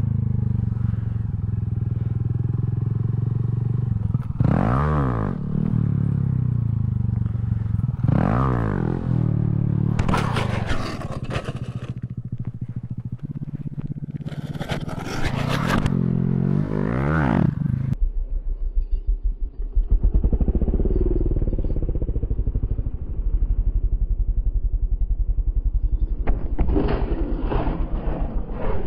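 Honda Grom minibike's 125 cc single-cylinder engine revving hard and dropping back, again and again, as wheelies are pulled. About 18 s in the revving cuts off abruptly and a low, uneven chugging takes over, and the revs pick up again near the end.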